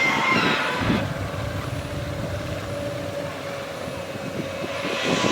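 Steady vehicle or machine noise with a low rumble and a faint steady hum.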